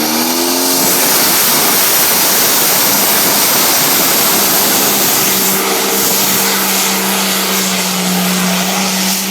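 Modified Case pulling tractor's engine at full throttle dragging the weight sled down the track: its pitch rises over the first second, then a loud steady roar, with a steady whine coming in about halfway through.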